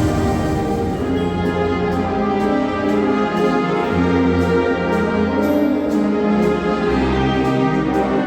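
Mixe philharmonic wind band of brass and woodwinds playing, with held notes that change pitch every second or so.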